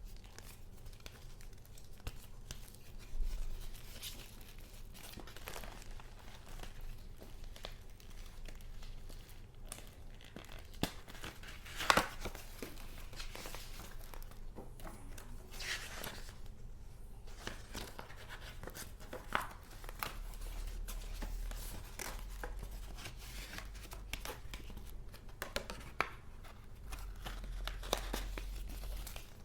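Paper rustling and crinkling as handmade junk-journal paper goods are handled, turned and pulled about, with scattered short taps and clicks, the loudest about twelve seconds in.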